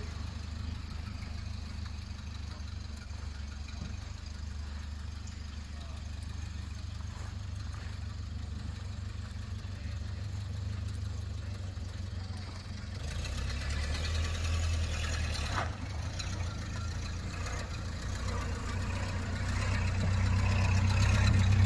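Car engine running at low speed, a steady low rumble that grows louder about two-thirds of the way through and again near the end.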